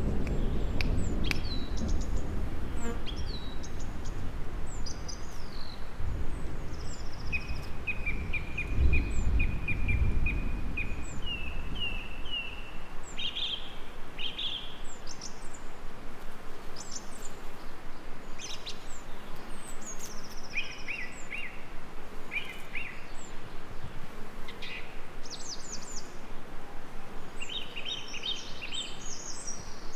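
Songbirds chirping and trilling, including a run of rapid repeated notes about eight seconds in, over a steady hiss of gentle rain. A low rumble of distant thunder swells over roughly the first twelve seconds, then dies away.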